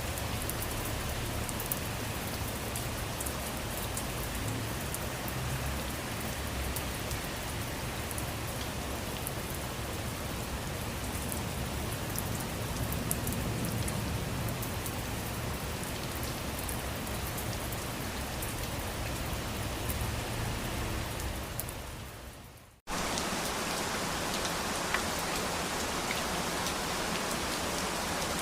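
Steady rain falling, with scattered drops pattering on a surface. About 22 seconds in, the rain fades out and then cuts back in abruptly as a slightly different rain recording with less low rumble.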